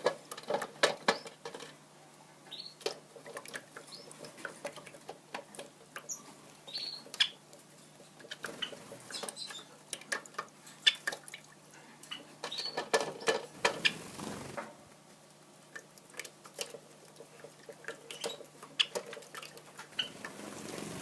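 A budgerigar and a Java sparrow bathing in a water dish: irregular splashing, wing-fluttering and clicks of beaks and feet, with a longer flurry a little past the middle. There are a few short, high chirps now and then.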